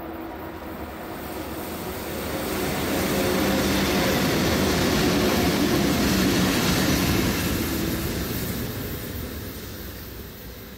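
A train passing by: it grows louder over about two seconds, stays loud for several seconds, then fades away.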